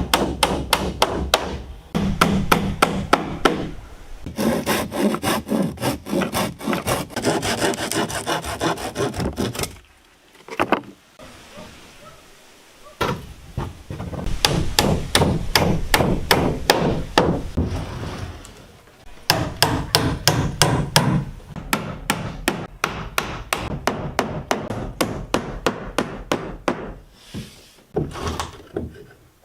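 Hand tools working timber: runs of quick, regular strokes on wood, about three to four a second, with a pause about ten seconds in.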